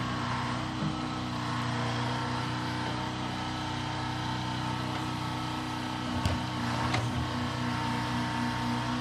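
A large engine running steadily at an even speed, with two short sharp knocks about six and seven seconds in.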